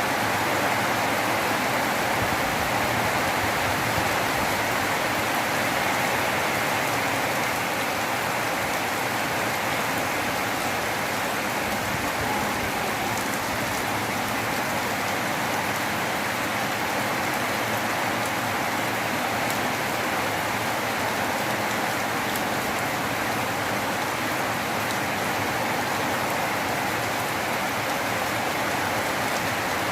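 Steady rain falling and pattering on surfaces, an even hiss that holds at the same strength throughout.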